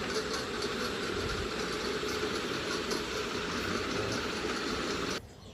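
Noisy ceiling fan running: a steady whirring drone with a faint rhythmic ticking about four times a second. It cuts off suddenly near the end.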